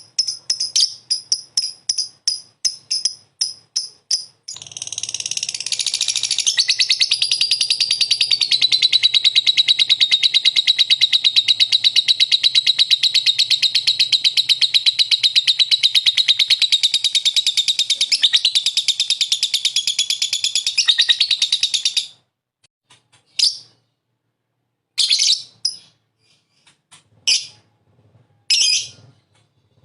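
Lovebird (Agapornis) calling: a run of quick, sharp, high chirps, about five a second, turns about four seconds in into one long unbroken trill of some seventeen seconds. The trill stops suddenly and gives way to scattered single chirps with short pauses between them.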